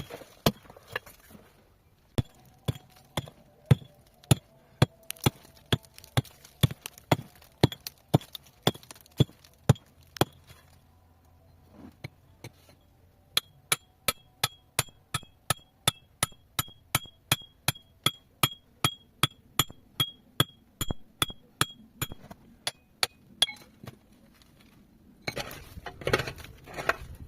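Steady hammering on stone, a metal tool chipping rock at about two to three sharp, ringing strikes a second, with a short pause about halfway through. A brief scraping noise follows near the end.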